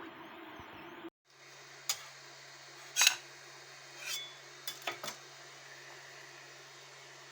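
Six sharp clicks and snaps of hard plastic, the loudest about three seconds in, as support material is broken off a freshly 3D-printed part, over a steady low hum. A steady whirring noise before them cuts off abruptly about a second in.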